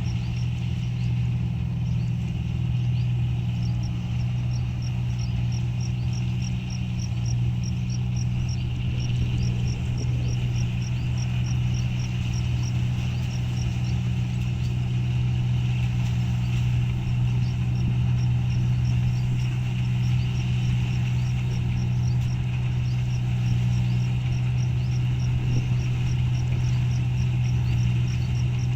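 Rice combine harvester running steadily while cutting paddy: a constant engine hum with a fast, even high ticking over it.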